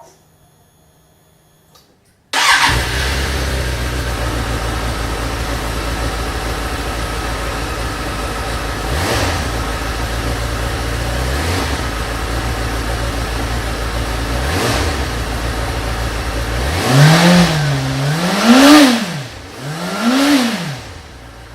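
Suzuki GSF650 Bandit inline-four engine breathing through an unrestricted, non-catalysed Roadsitalia Doublefire carbon slip-on exhaust. It starts up about two seconds in and idles steadily with a few short throttle blips, then is revved three times near the end, each rev rising and falling.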